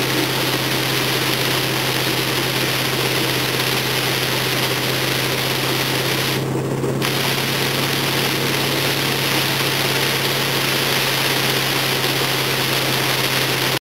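A car engine running steadily with a constant low hum, under a loud continuous rush of water spray as the car drives through flood water. The hiss dips briefly about halfway through.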